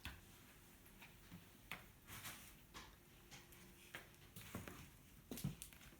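Near silence: room tone with a few scattered faint clicks and rustles.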